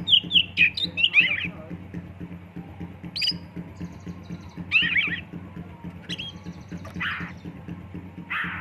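Oriental magpie-robin (kacer) singing: quick clusters of gliding, chirping whistles in the first second and again around five seconds in, with short harsh rasping notes near the end.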